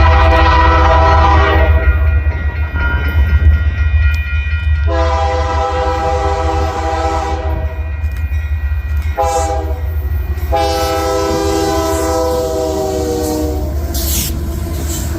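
Diesel freight locomotive's air horn sounding the grade-crossing signal: two long blasts, a short one, then a long one near the end. A steady low rumble of the passing train runs beneath it.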